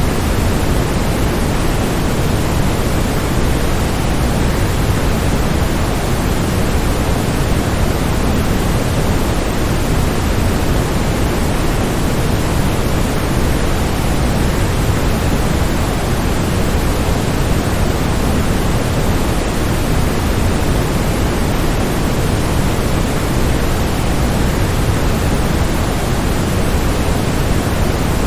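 Steady rushing noise of a waterfall, even and unchanging throughout, heaviest in the low end.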